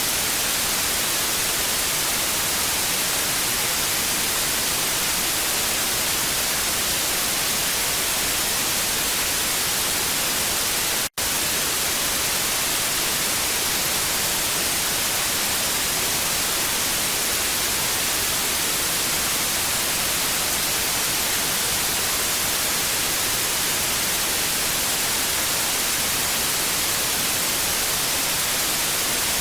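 TV static: a steady, bright hiss with no tones in it, cutting out for a split second about eleven seconds in.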